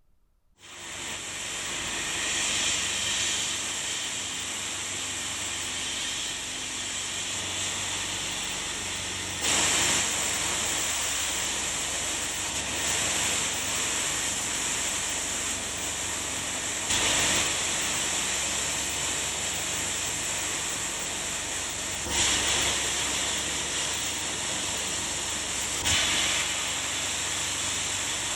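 A loud, steady hiss that starts about half a second in and runs on, with four brief louder surges.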